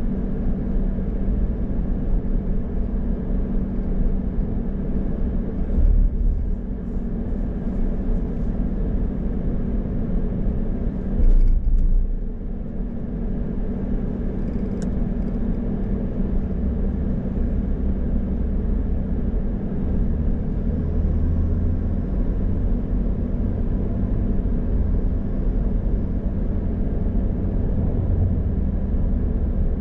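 Car on the road: a steady low engine and tyre rumble, with two short louder bumps about six and eleven seconds in.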